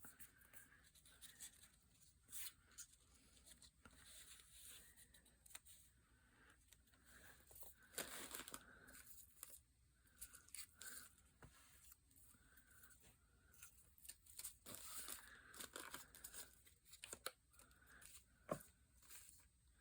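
Paper being handled and torn: faint, intermittent rustling and tearing with scattered small clicks, the longest tearing strokes about eight seconds in and again around fifteen seconds.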